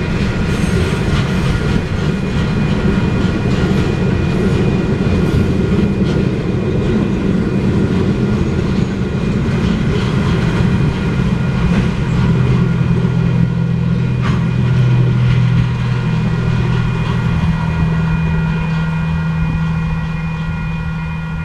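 Rail work train cars rolling through a grade crossing, wheels rumbling and clacking over the rails, with steady ringing tones from the crossing signal over it. A low steady drone comes up about halfway through, and the rumble eases near the end as the last car clears the crossing.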